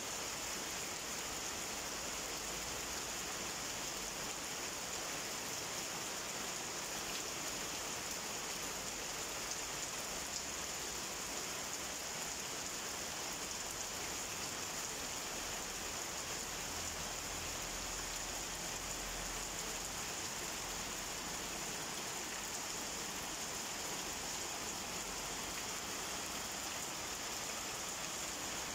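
Torrential rain falling steadily, an even unbroken hiss of drops on the ground, paving and standing water.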